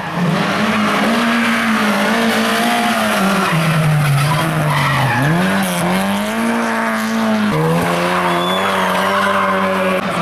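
Race car engine pulling hard on a hill climb, its pitch sagging and rising again through a corner, with a sudden step in pitch about seven and a half seconds in at a gear change; tyres squeal and skid on the tarmac.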